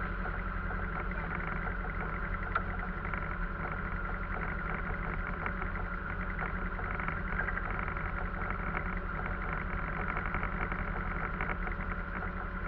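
A vehicle engine running at a steady speed, an even drone that doesn't rise or fall.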